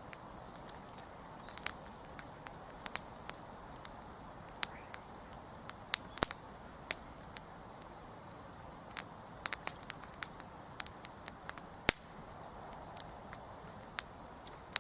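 Wood campfire crackling: irregular sharp pops and snaps, sometimes several in quick succession, over a steady soft hiss of burning. The loudest pops come about six and twelve seconds in.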